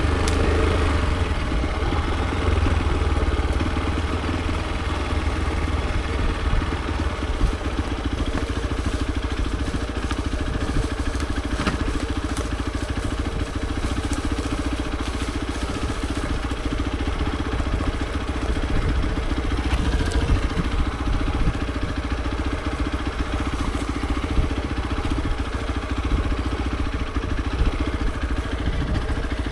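Hero XPulse 200 4V motorcycle's single-cylinder four-stroke engine running steadily at a fairly even speed, with no big revs.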